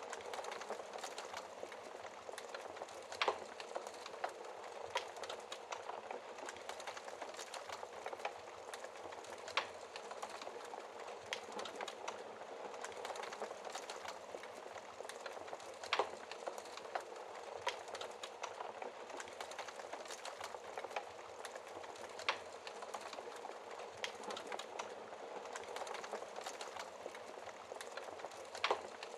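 Wood fire crackling with frequent small snaps and a few louder pops several seconds apart, over a steady hiss of rain.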